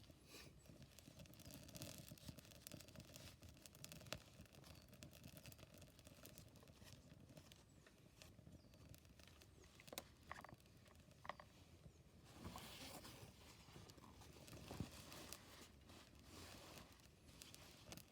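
Faint crackling of a wood campfire: scattered, irregular small pops and snaps over a soft hiss.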